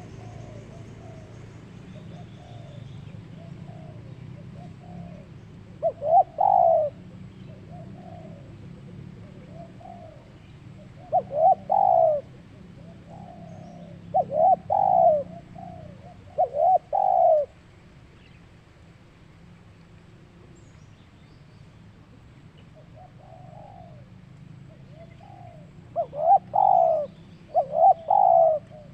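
Zebra dove (perkutut) cooing: a run of soft coos, with groups of louder, quick notes about six seconds in, around eleven seconds, twice between fourteen and seventeen seconds, and again near the end. A steady low hum lies underneath.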